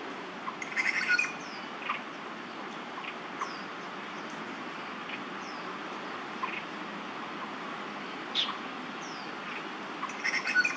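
Wild birds giving scattered short chirps and calls over a steady low background hum, with a busier flurry of calls about a second in and again near the end.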